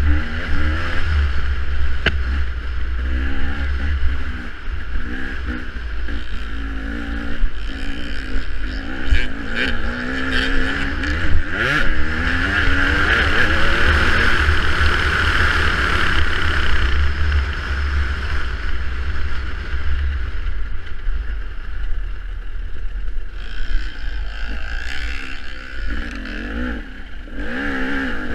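Off-road dirt bike engine revving up and falling back again and again as it is ridden, over a heavy low wind rumble on the microphone.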